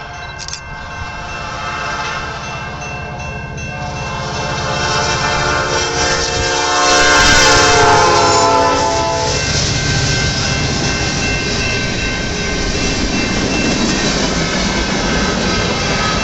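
Illinois Central EMD SD70 locomotive sounding its P5 air horn in long blasts, growing louder and dropping in pitch as it passes about seven seconds in. The horn stops after about nine and a half seconds, leaving the steady rumble of the train rolling by.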